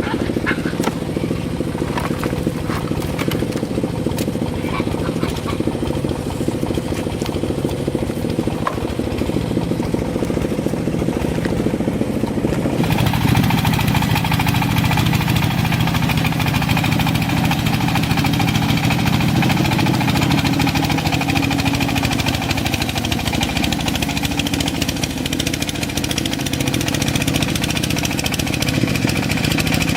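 An engine running steadily, with a louder, rougher mechanical noise coming in a little under halfway through.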